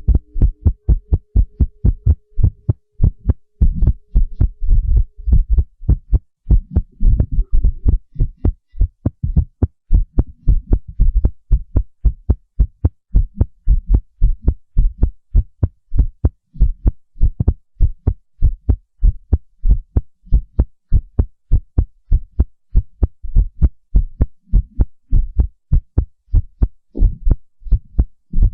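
Amplified heartbeat: loud, steady, evenly repeating low thumps, about three a second.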